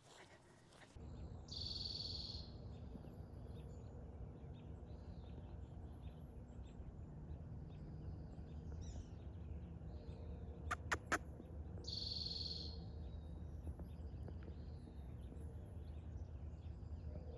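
A steady low hum, with two short high bird calls about ten seconds apart and three quick clicks just before the second call.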